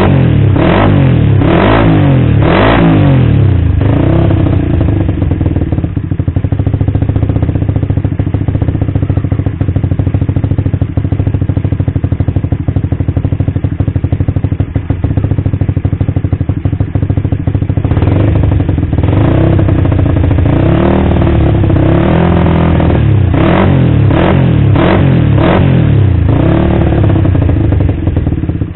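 Suzuki Satria FU's 150 cc single-cylinder four-stroke engine running through an aftermarket exhaust. It is blipped in several quick revs, settles to a steady idle, and is revved repeatedly again in the last third.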